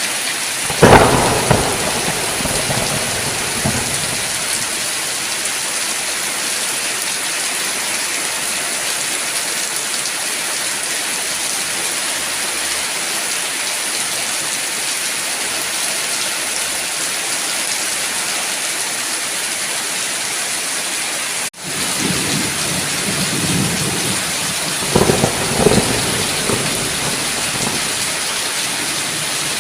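Steady heavy rain with two rolls of thunder, one about a second in and another near the end. The rain cuts out for an instant about two-thirds of the way through.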